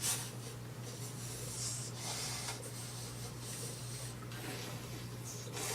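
Soft rubbing and scraping of small toys being handled and moved about, in short hissy strokes, over a steady low hum.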